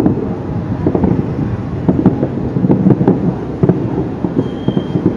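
Aerial fireworks display: shells bursting in an irregular, rapid series of bangs and crackles over a steady low rumble.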